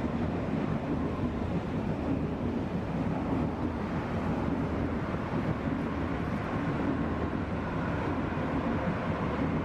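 EuroCity electric passenger train passing, a steady low rumble of wheels on the rails.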